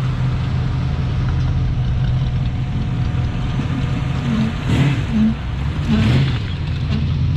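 A car engine rumbling at low speed as the car rolls past, with two brief louder bursts about five and six seconds in.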